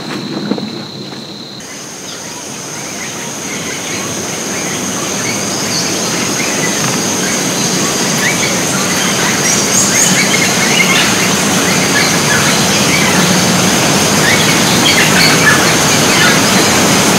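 A chorus of howler monkeys calling, a rough, noisy din that swells steadily louder, with scattered short bird chirps and a steady high whine over it.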